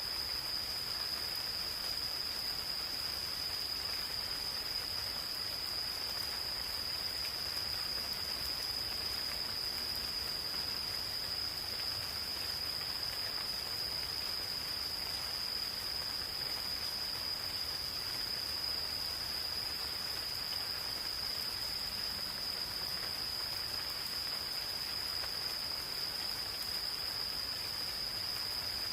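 Gentle rain falling in a forest, with insects giving a continuous high trill at one steady pitch.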